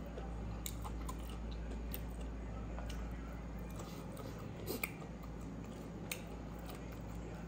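Close-up chewing of pork intestine and rice, with wet mouth clicks and smacks scattered through it; the sharpest clicks come near five and six seconds in, over a steady low hum.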